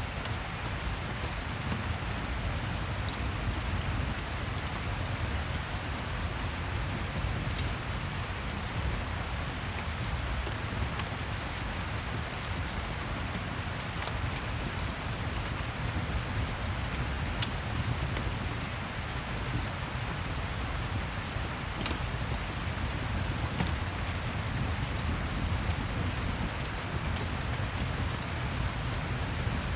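Steady rain falling with a crackling fireplace: an even rush of rain, with a few sharp pops scattered through it.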